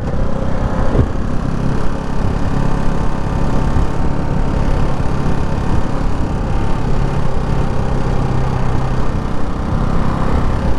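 Ducati Hypermotard 698 Mono's single-cylinder engine running steadily while the bike is ridden, with a constant rushing noise underneath. A brief click sounds about a second in.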